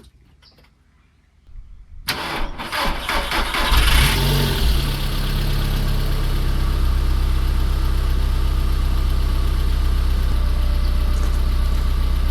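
A 2002 Audi A3's engine cranked by the starter about two seconds in, catching with a brief flare of revs and then settling into a steady idle. The exhaust leak ahead of the catalytic converter has just been welded up, and the idle is so quiet.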